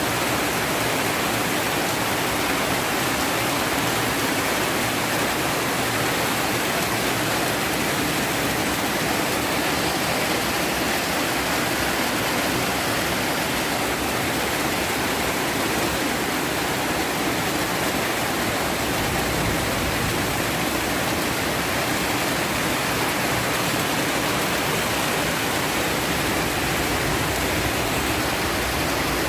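Heavy storm rain pouring down, a steady unbroken rush of water with runoff flowing.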